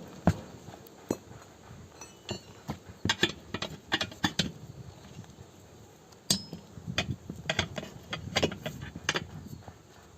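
Hand tools working on a tractor tyre: irregular sharp metallic clinks and knocks, a dozen or so spread unevenly through the stretch.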